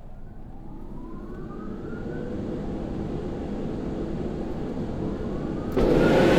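Car wash machinery motors spinning up with a rising whine, growing steadily louder, then a sudden loud rush near the end.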